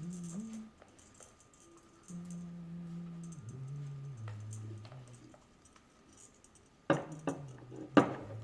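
A short tune of long, steady low notes that step up and down in pitch, then several sharp clicks and knocks about seven seconds in.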